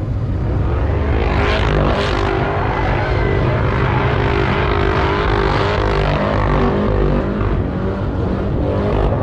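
A car's V8 engine held at high revs, running hard, its pitch wavering up and down.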